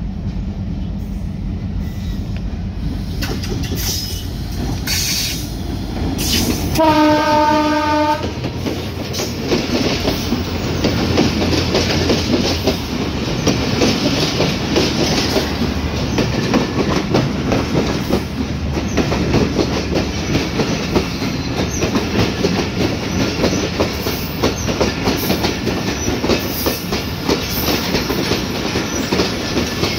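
An incoming passenger train with a diesel-electric locomotive. The engine drones for the first few seconds, a horn blasts for about a second around seven seconds in, and then the coaches roll past with continuous clattering wheel noise over the rails.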